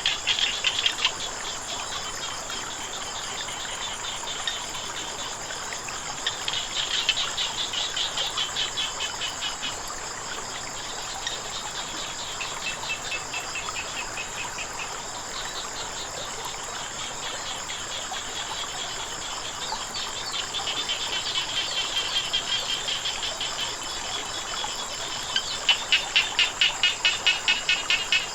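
Frogs calling in bouts of rapid pulsed croaks, loudest in a run of about four pulses a second near the end, over a steady high-pitched drone of insects.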